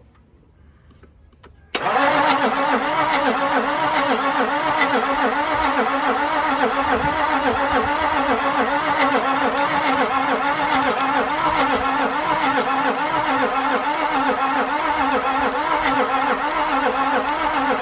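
Toyota 1HD-FTE 4.2-litre straight-six turbodiesel being cranked by its starter motor. The cranking starts suddenly about two seconds in and runs steadily, with a wavering pitch, for about 16 seconds before stopping abruptly. The engine does not fire: a no-start.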